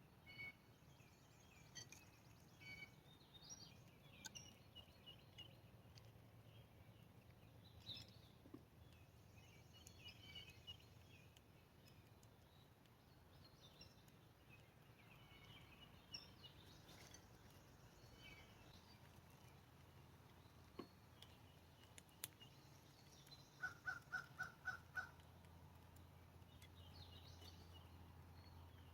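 Faint bird chirps and calls against quiet outdoor background noise. About three-quarters of the way through comes a quick run of about six short, evenly spaced, louder notes.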